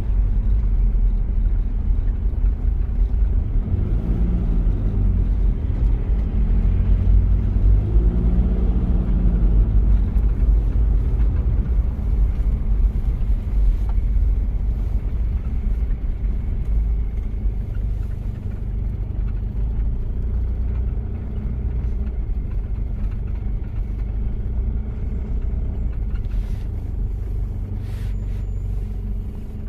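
Toyota Prado diesel engine running while driving, a steady low rumble. Its pitch rises and falls a few times in the first ten seconds as the revs change, then holds steady.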